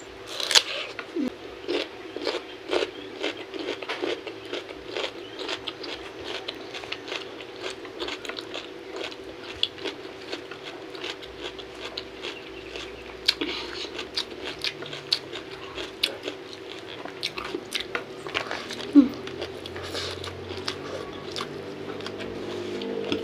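Close-up eating sounds: a crisp bite into raw young mango about half a second in, then steady chewing with wet mouth clicks and crunches throughout.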